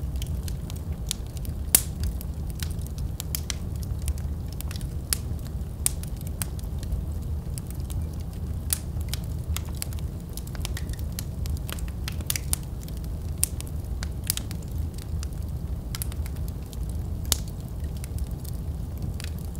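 Wood fire burning in a fireplace: a steady low rumble of flame with frequent, irregular crackles and sharp pops of burning wood.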